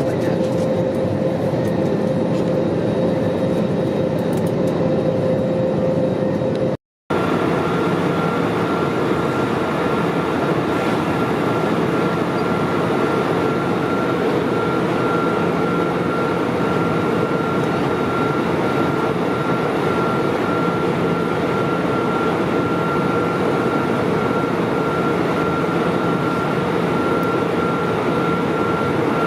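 Airbus A320neo cabin noise: the steady roar of the jet engines and airflow, with a constant hum running through it. The sound cuts out briefly about seven seconds in, and when it returns the hum sits at a higher pitch.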